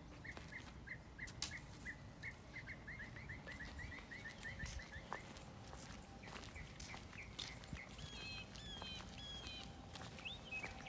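Birds singing: one bird repeats a short chirp, speeding up, and stops about five seconds in; near the end another bird sings a series of rising and falling notes.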